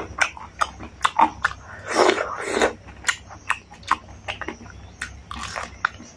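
Close-miked chewing and biting of food, with many short sharp mouth clicks and a louder, longer mouth sound about two seconds in.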